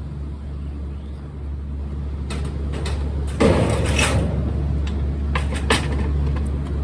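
Steady low hum of an idling delivery truck, with a few sharp knocks and a louder scraping slide of metal gear about three and a half seconds in.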